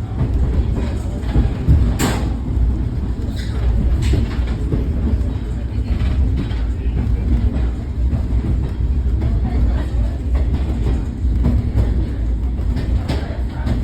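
Mountain train running on its track: a steady low rumble with scattered sharp clicks.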